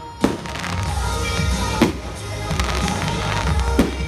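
Aerial firework shells bursting in the sky: about three loud bangs a second or two apart, with crackling between them. Music plays steadily underneath.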